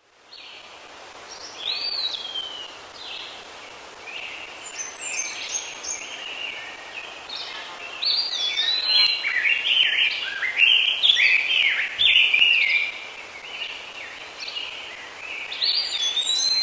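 Several birds singing and calling at once, a dense chorus of short whistled and gliding notes, busiest in the middle of the clip. There is a brief soft knock about twelve seconds in.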